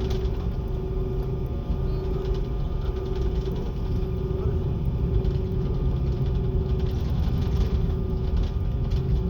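Airliner cabin noise: the steady low rumble of the engines and rushing air, with a faint hum that swells and fades about once a second.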